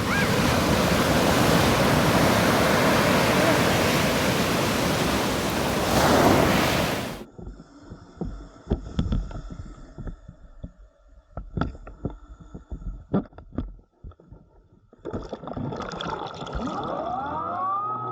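Rough surf and wind rushing on an open microphone, cut off sharply about seven seconds in. Then comes a muffled, mostly quiet stretch with scattered knocks and clicks, consistent with the camera going underwater. Near the end, rising tones swell into the start of music.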